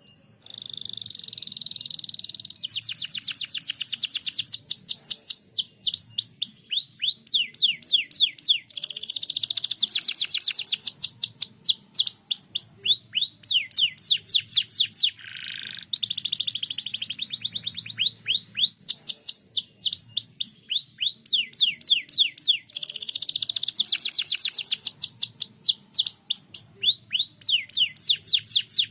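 Domestic canary in full, continuous song: long rolls of fast repeated downward-sweeping notes, each roll at its own speed, running on with only a brief break about halfway through.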